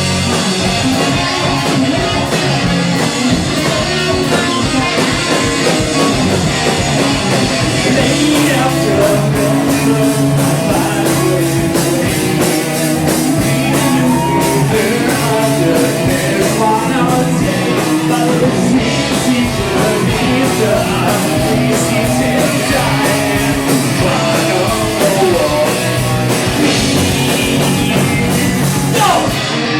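A rock band playing live, loud electric guitars and drums, with a singer joining in about a third of the way through.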